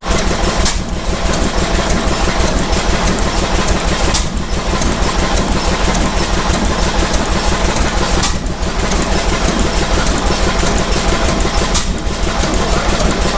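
Vintage stationary engine running steadily, with a fast, even low beat.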